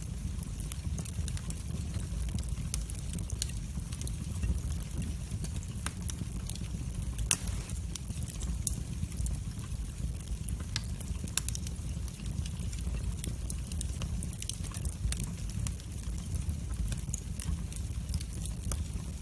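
Wood fire in a fireplace crackling: sharp pops and snaps at irregular intervals over a steady low rumble of the flames, with one louder pop about seven seconds in.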